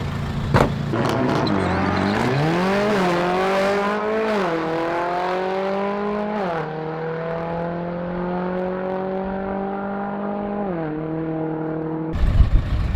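A car accelerating hard down a drag strip. The engine pitch climbs steadily and drops sharply at each upshift, about four, six and a half and eleven seconds in, and the sound grows duller as the car pulls away.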